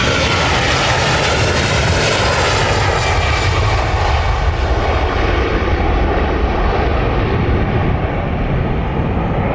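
Jet airliner passing close by, its engines running loud and steady with a whining fan tone; the high, hissing part of the sound fades over the last few seconds as the aircraft moves away.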